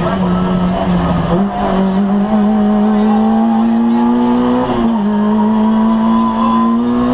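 Citroën AX GTI rally car's four-cylinder petrol engine at high revs, heard from inside the cabin. The revs waver at first, then the pitch climbs steadily, drops briefly about two-thirds of the way in, and climbs again.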